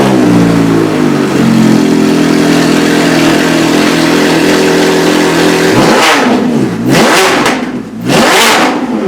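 Ferrari F430's flat-plane V8 running through straight pipes, with the catalytic converters removed and no muffler, idling loudly and steadily just after starting. About six and eight seconds in it is blipped twice, the pitch sweeping up and back down each time.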